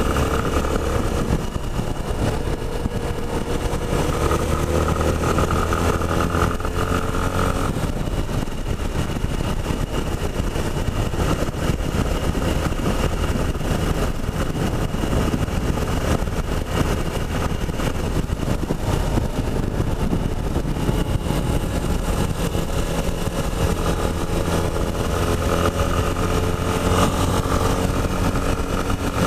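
Yamaha Ténéré 250's single-cylinder four-stroke engine running on the move, its pitch drifting slowly up and down with the throttle. Through the middle stretch a steady wind rush over the microphone drowns the engine note, which comes back clearly near the end.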